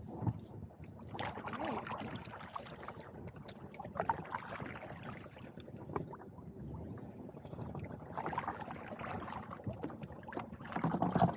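Irregular clunks, knocks and rustling from gear being handled on a plastic fishing kayak, with a louder stretch of handling near the end.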